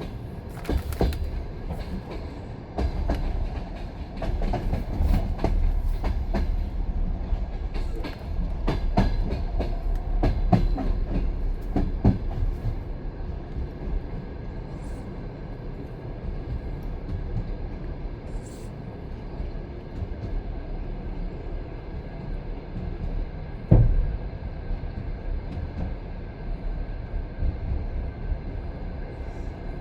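Train wheels running over rails: a steady low rumble with irregular clattering knocks at the rail joints, thickest in the first half, and one louder knock a little past two-thirds of the way through.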